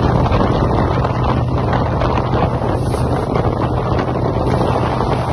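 Wind rushing over the microphone from a moving train, over the train's steady low running rumble.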